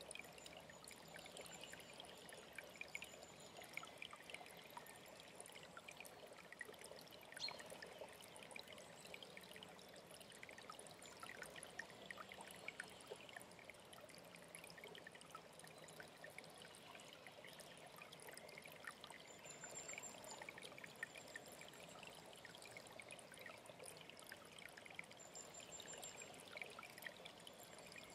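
Quiet running water, a small stream trickling and splashing, with faint high, thin bird calls at the start, about two-thirds of the way in, and again near the end.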